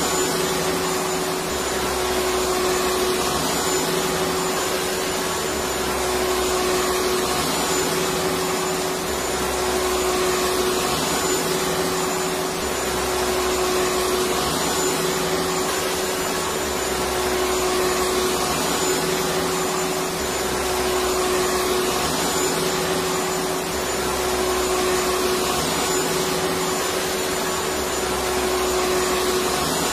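Electric vacuum cleaner running steadily: a dense whooshing hum with a steady motor whine, swelling slightly about every two seconds.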